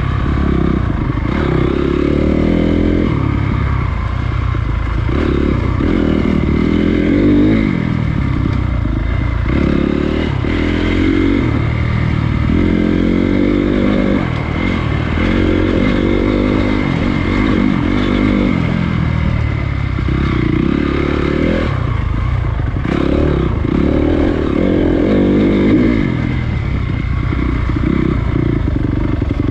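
Honda CRF250 single-cylinder four-stroke dirt bike engine under way on a trail, its pitch rising and falling again and again as the throttle is opened and closed.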